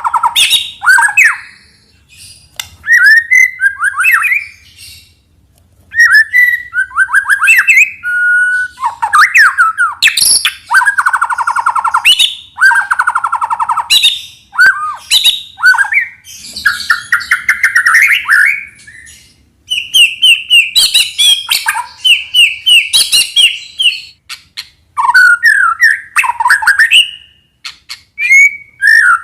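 White-rumped shama singing: loud, varied song of clear whistled phrases, rattling notes and fast repeated trills, broken by short pauses between phrases.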